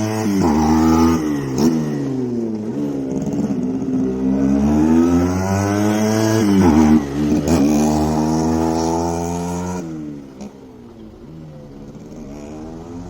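Suzuki Shogun's single-cylinder two-stroke engine, with an expansion-chamber exhaust, revved up and down several times, its pitch rising and falling. About ten seconds in it drops back to a quieter, lower idle.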